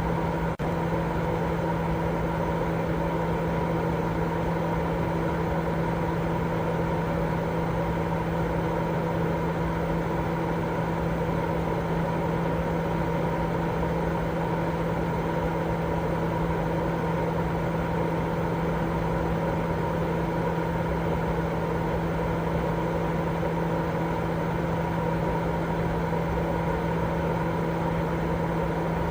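Continuous white-noise sleep sound: an even hiss with a steady low hum beneath it, unchanging throughout apart from a brief dip about half a second in.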